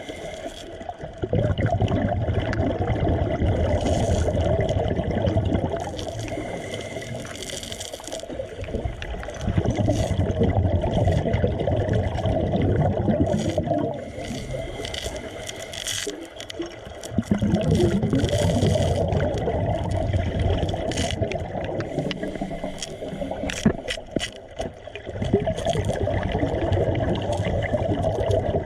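Underwater bubbling and gurgling of a diver's exhaled air from a regulator, coming in surges of a few seconds with quieter spells between.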